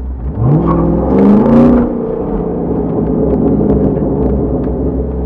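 Chevrolet Corvette C6's LS2 V8 through a Borla exhaust, revving up sharply about half a second in, loudest around a second and a half in, then running steady under throttle with a deep low rumble.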